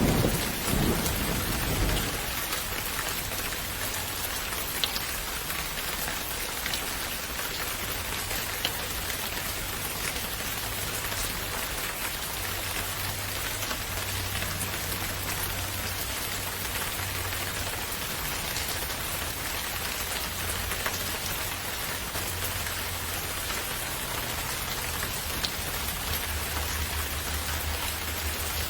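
Steady rain falling on a surface, with scattered drop ticks. In the first couple of seconds the tail of a thunder rumble dies away.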